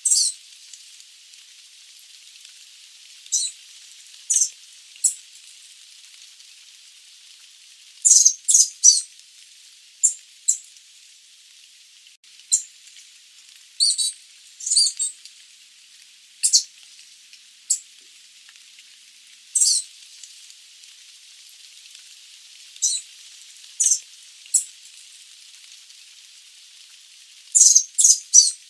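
Sooty babbler giving short, high-pitched call notes at irregular intervals, some in quick clusters of two or three, over a steady hiss.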